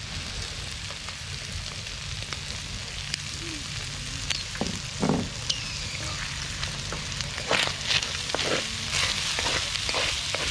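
Spider conch shells and octopus sizzling in hot oil in a pan as they are stir-fried, with the spatula clicking and scraping against the pan, more often in the second half.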